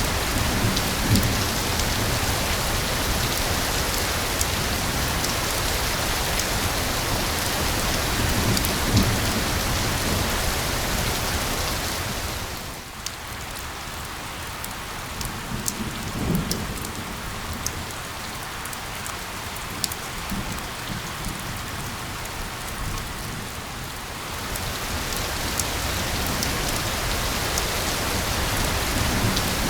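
Steady rain pattering on a surface, with a quieter stretch in the middle where individual drops ticking stand out. A few brief low rumbles come through.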